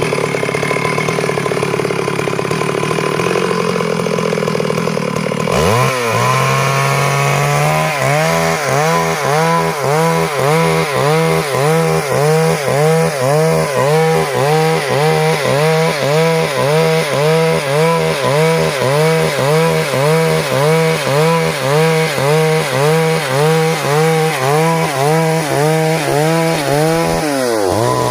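Stihl MS 382 two-stroke chainsaw running, then cutting wood under load from about six seconds in. Its engine pitch dips and recovers in a steady rhythm a little faster than once a second, then drops away near the end.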